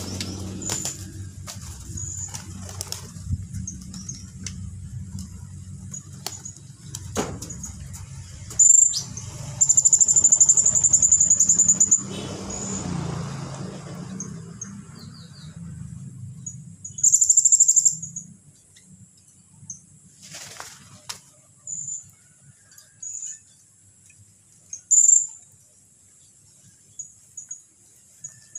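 White-rumped shama (murai batu) song in its rapid trill style (trotolan): scattered short, high-pitched notes and loud, fast trills, the longest lasting about two seconds a third of the way in, another just past halfway. A low hum sits under the first half and then fades.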